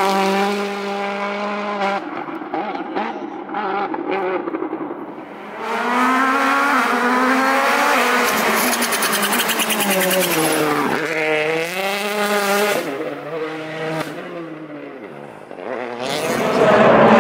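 Turbocharged rally car engines at full throttle. One car pulls away at the start, then another comes through, its revs climbing and dropping sharply with each gear change and dipping hard under braking about eleven seconds in before fading. A third car swells in near the end.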